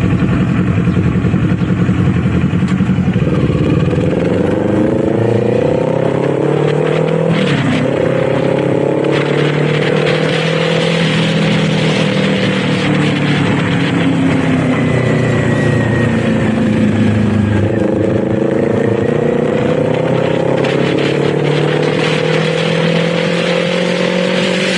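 Kawasaki Z400's parallel-twin engine under way, running steadily at first and then accelerating, its note rising and dropping back several times as it shifts and eases off, with wind noise over the microphone.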